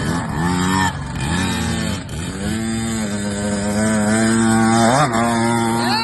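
Small KTM motocross bike engine running under throttle, its pitch climbing and dropping back twice in the first two seconds. It then holds a steady note, with a quick rev about five seconds in and another rising and falling rev near the end.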